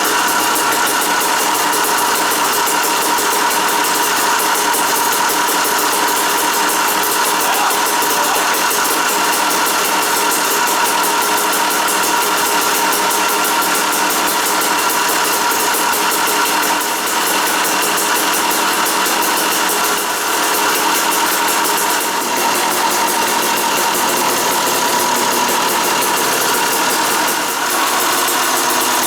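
Two-stroke dirt bike engine running steadily through a newly fitted FMF Gnarly expansion chamber and Powercore 2 Shorty silencer, on its first start after the install.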